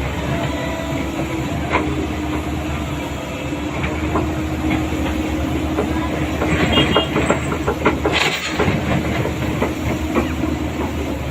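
Excavator's diesel engine running steadily, with scattered knocks and rattles and a louder rush of noise about eight seconds in.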